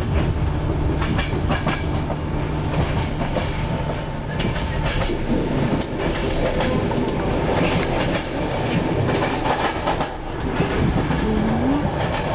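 Inside a moving EuroCity passenger coach: the steady low rumble of the train running on the track, with scattered clicks of the wheels over rail joints.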